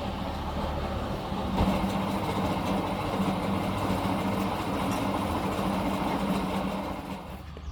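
A motor-driven machine running steadily with a low hum, dropping in level shortly before the end.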